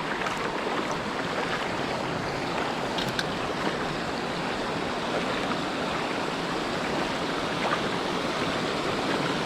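Creek water rushing steadily over rocks in a current.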